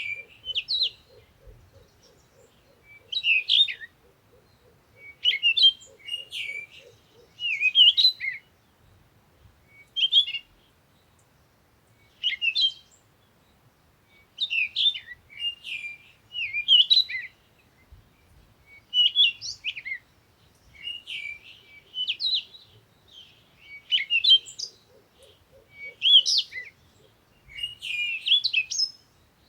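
Songbirds chirping and singing in short, repeated phrases, one every second or two. A faint, low, rapid trill runs underneath at the start and again briefly near the end.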